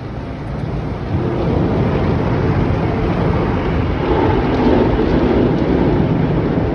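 Automatic car wash working over the car, heard from inside the cabin: a steady rushing of water spray and equipment against the body that grows louder about a second in.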